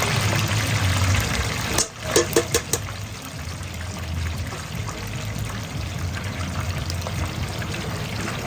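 Steady rushing noise of a working food-truck kitchen, with a quick run of four or five clicks and clatter about two seconds in.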